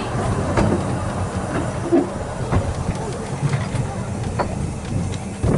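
Narrow-gauge train running on the line, its wheels clicking over the rail joints over a low steady hum, slowly fading.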